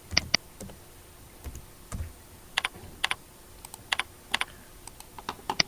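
Computer keyboard and mouse clicking: a dozen or so sharp, scattered clicks, several in quick pairs, with short pauses between them.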